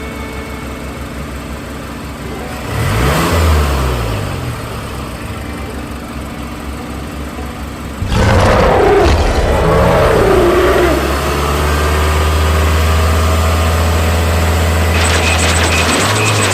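Tractor engine running, with a rise and fall in revs about three seconds in. A sudden loud noise comes about eight seconds in, then a steady low engine drone, with rapid clicking near the end.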